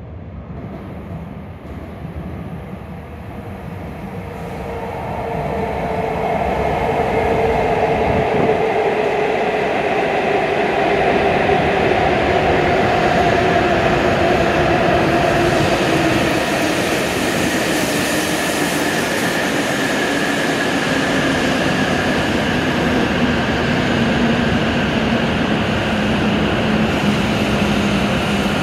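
W7-series Shinkansen train running in alongside the platform and slowing, its rushing noise growing loud a few seconds in. Over it, a whine from the traction motors falls steadily in pitch as the train brakes.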